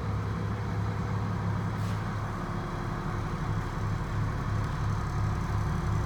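The rear-mounted Cummins 8.3-litre inline-six turbo diesel of a school bus idling steadily, heard from inside the bus.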